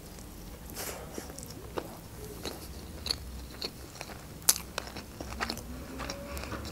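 A person biting into a sushi roll and chewing it, with wet mouth sounds and small clicks and smacks scattered irregularly throughout.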